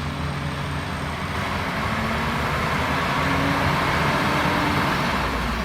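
Heavy truck engine running steadily under a broad rushing noise, growing a little louder through the middle.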